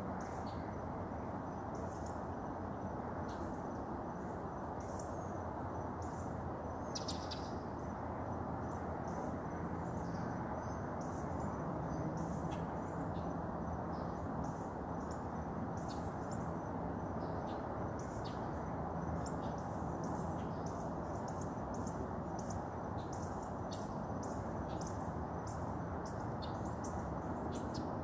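Birds chirping outdoors, many short separate calls throughout, over a steady low background rush.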